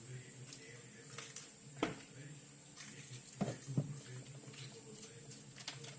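A kitchen knife slicing soft, wilting bell peppers, knocking on the cutting board a few separate times, over a steady low hum.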